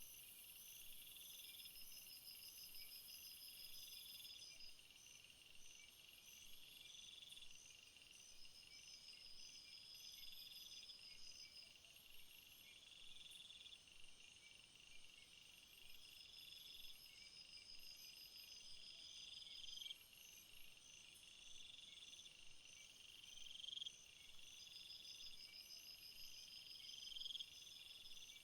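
Faint chorus of insects: a steady high drone with an even fast pulsing over it, short rising buzzy calls every two to three seconds, and a longer trill roughly every five seconds.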